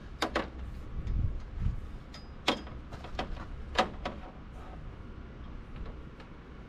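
Plastic wiring-harness connectors for an LED light kit being plugged together: a few sharp clicks and snaps with light handling noise, the loudest about two and a half seconds in and again near four seconds.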